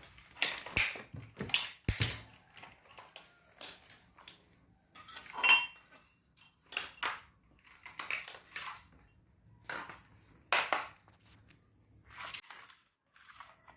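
Hard objects being handled, clattering and clicking at irregular intervals, with a faint low steady hum under them that stops near the end.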